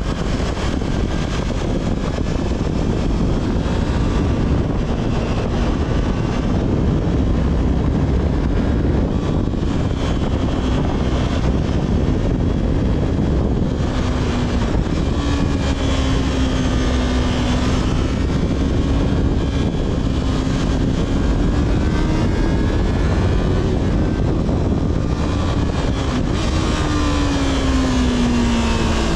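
Yamaha R3's parallel-twin engine through its stock exhaust while riding, its note drifting up and down with the throttle and climbing near the end, under a steady rush of wind noise.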